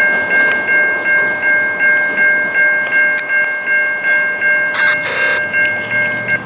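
Railroad grade-crossing warning bell ringing in a steady beat of about three strikes a second, over the noise of the train passing, then cutting off near the end. A crow caws once, about five seconds in.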